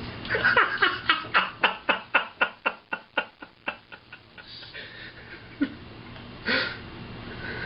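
Parrot imitating a laugh: a long run of quick 'ha' pulses, about four a second, fading as it goes, then a short sharp burst near the end.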